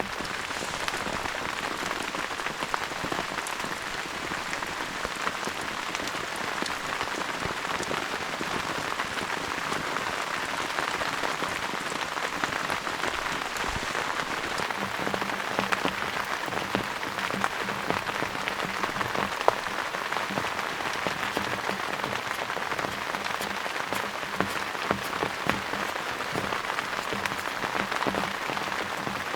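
Steady rain falling, a dense patter of many small drops without let-up.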